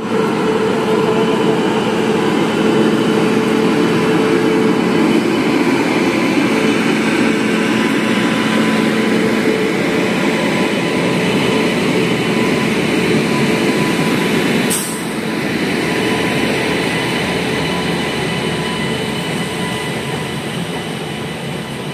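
Passenger train running on the rails: a steady rumble and rattle of wheels and coaches with a held hum that fades out about nine seconds in. A single sharp clank comes about 15 seconds in, after which it runs a little quieter.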